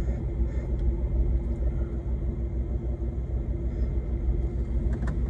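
Semi truck's diesel engine running steadily: a low pulsing rumble with a steady hum above it.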